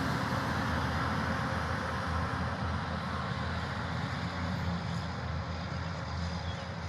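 A steady rushing background noise, slowly fading.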